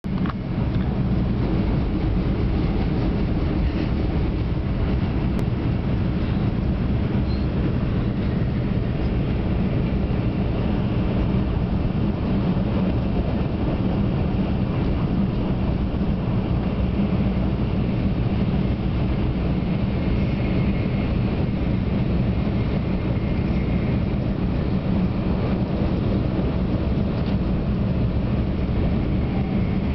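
Passenger train running, heard from inside the carriage: a steady low rumble and hum that does not change.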